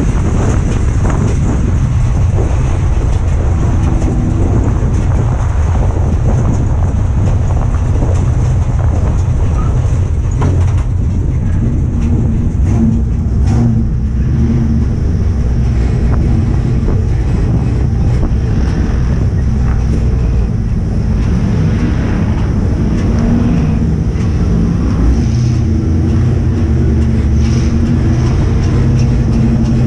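Ford Crown Victoria race car's V8 engine running hard at racing speed, heard from inside the stripped cockpit. The engine note moves up and down through the laps, over a steady din of wind and road noise.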